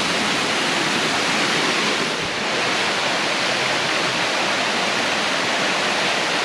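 Stream water rushing steadily over an old man-made dam, a constant hiss of falling water with a slight dip about two seconds in.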